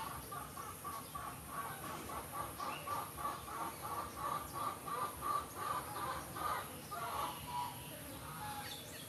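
A bird calling in a steady run of short clucking notes, about three a second, that stops about seven seconds in.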